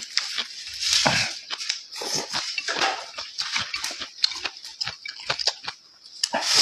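A person eating close to the microphone: wet chewing, smacking and slurping in quick, irregular bursts.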